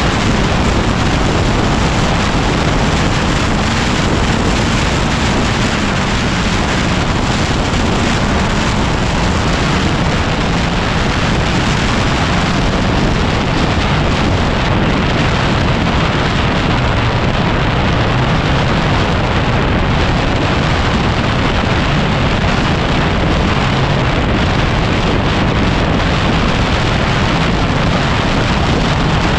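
Heavy wind noise buffeting the microphone of a 2010 Yamaha WR250R dual-sport motorcycle on the move, steady and loud, with the bike's single-cylinder engine running underneath.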